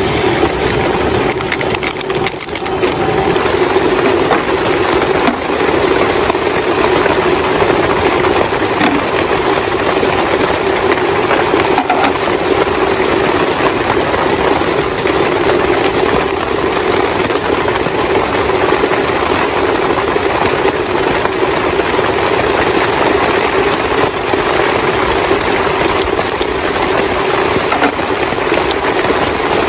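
Heavy rain falling, a dense, steady, crackling hiss that does not let up.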